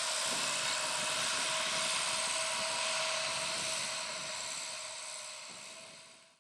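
Deutz-Fahr Agrotron 6190 TTV tractor and round baler running steadily in the field: a dense mechanical din with a steady whine through it. It fades out over the last couple of seconds.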